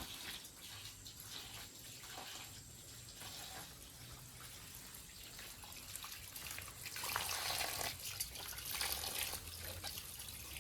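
Water running and splashing, irregular, louder about seven seconds in.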